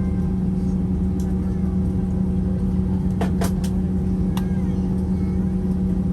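Steady low hum inside an airliner cabin before takeoff, with a few sharp clicks a little past halfway and one more about a second later.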